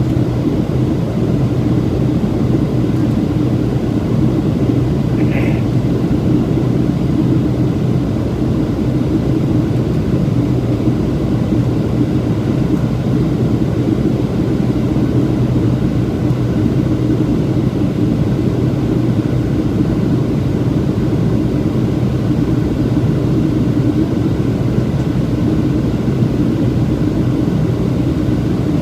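Boeing 737-700 in flight, heard from inside: the steady drone of airflow and its CFM56 jet engines, with a low hum that holds level throughout. A brief faint high tone sounds about five seconds in.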